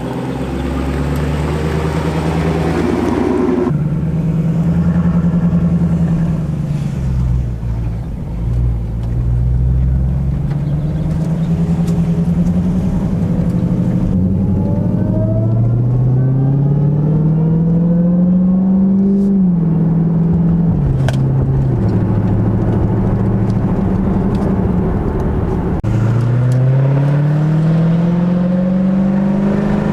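Dodge Charger Hellcat's supercharged V8, mufflers removed, accelerating hard through the gears: the loud exhaust note climbs in pitch and drops back at each upshift, twice.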